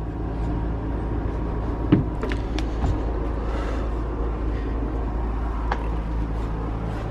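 Steady low mechanical hum, with a few light clicks and knocks from the teardown work on the engine.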